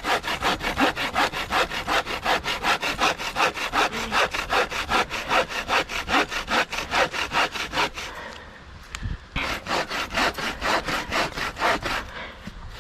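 Hand saw cutting through a log in fast, even back-and-forth strokes, about four or five a second. It pauses briefly about eight seconds in, then saws on and stops near the end.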